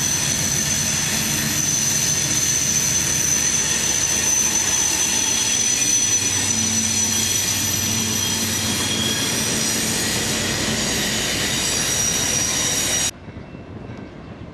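Freight train rolling past with steel wheels squealing in steady high tones over a low, steady drone. The sound cuts off suddenly near the end, leaving a much quieter background.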